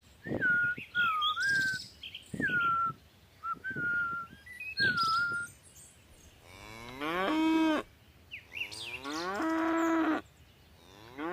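Cattle mooing: two long moos, each rising in pitch and then holding steady, with a third starting near the end. Before them come several short, wavering high-pitched animal calls.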